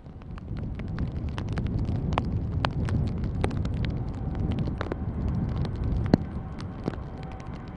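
Wind buffeting the microphone with a low rumble and scattered sharp crackles, and a faint steady whine entering about halfway through.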